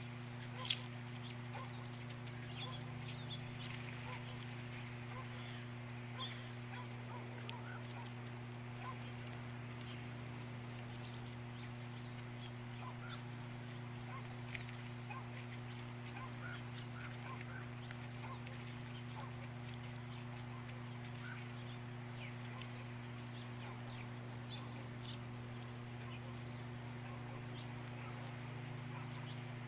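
Steady electrical hum picked up by an outdoor nest-camera microphone, with faint, scattered short chirps of small birds throughout and a sharp click about a second in.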